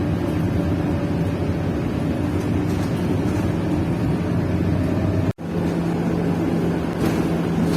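City bus running, a steady engine and road hum heard from inside the cabin. About five seconds in the sound drops out for an instant, then comes back with a steadier low drone.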